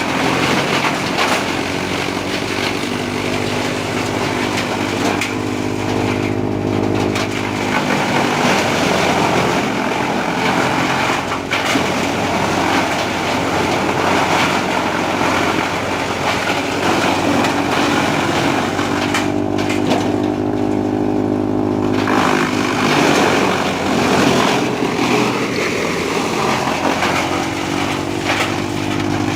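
Trakstar 545 DI tractor's diesel engine running a wood chipper, its steady note mixed with a rough, noisy clatter that swells and eases several times.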